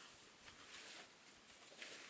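Near silence, with faint soft rustling and a few light ticks.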